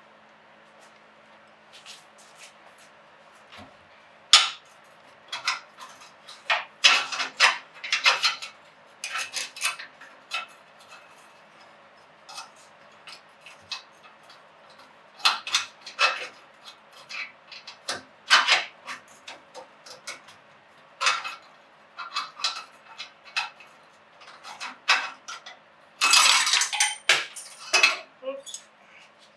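Hand tools clinking and clattering against metal as fasteners are worked in an engine bay: irregular sharp metallic clicks, with a longer run of clatter near the end. A faint steady hum sits underneath.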